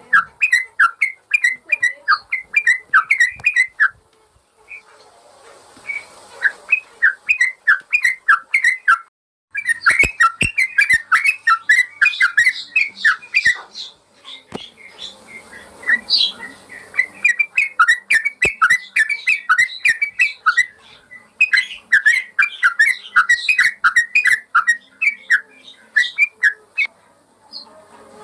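Yellow-vented bulbul (trucukan) singing fast, continuous runs of sharp chirping whistled notes in phrases a few seconds long. There are short pauses between the phrases and a brief cut-out about nine seconds in.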